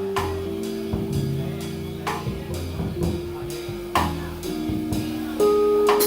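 Live piano and drum kit playing: held piano notes and chords, with drum and cymbal strokes about every two seconds and a louder note coming in near the end.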